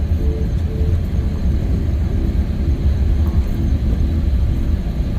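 Steady low rumble of a moving vehicle: engine and road noise with a faint, even hum above it.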